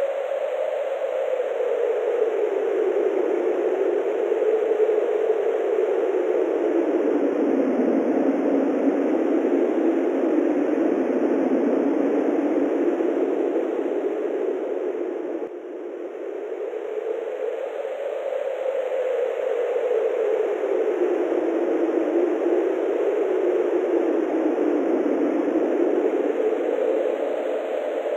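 Wind blowing as a steady rushing hiss whose pitch slowly sinks and rises twice, with a brief drop in level about halfway through.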